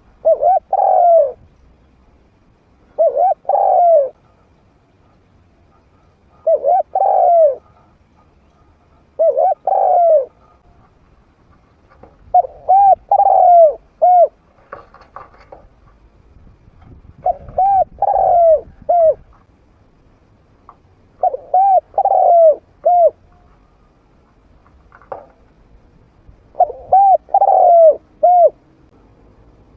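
A trained spotted dove cooing in a medium-pitched voice. It gives a short phrase of two to four coos about every three seconds. The call is used as a challenge that draws wild doves in to fight.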